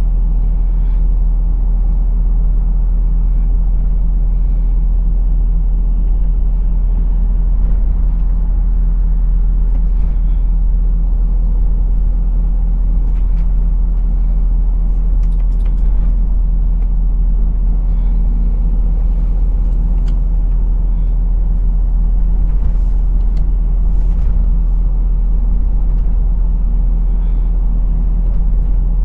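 A lorry's diesel engine and road noise heard from inside the cab: a steady low drone with a few faint clicks and ticks.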